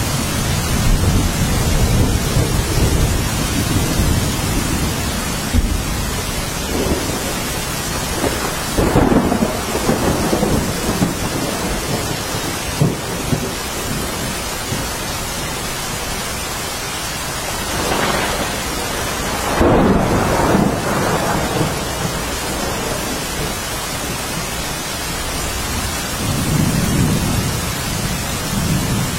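Steady rain falling, with low rolls of thunder that swell and fade several times, the strongest about 9 and 20 seconds in.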